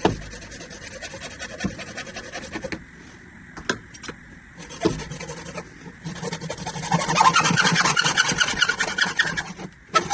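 Hand saw sawing back and forth with a rasping sound, pausing briefly twice, and louder in the last few seconds. A couple of sharp knocks come near the middle.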